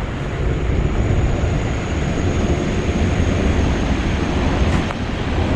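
Berlin S-Bahn train running on nearby tracks: a steady low rumble with a faint high whine over it.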